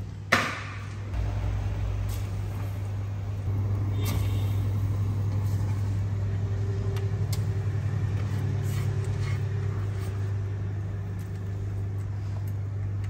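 Steady low electrical hum of an induction cooktop heating a stainless steel saucepan of water, getting slightly louder about three and a half seconds in. A single sharp knock sounds just after the start.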